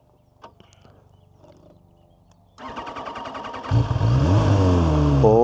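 QJMotor SRK 921 RR's inline-four engine being started: a few faint clicks, then about a second of starter cranking before it catches. It is then blipped twice, the revs rising and falling each time.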